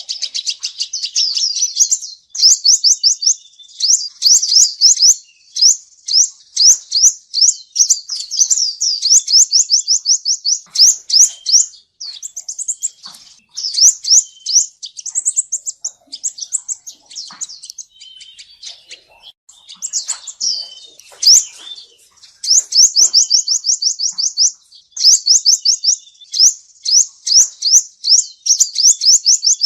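Male sunbird singing: rapid trills of thin, high notes, about ten a second, in bursts of a few seconds with short pauses between.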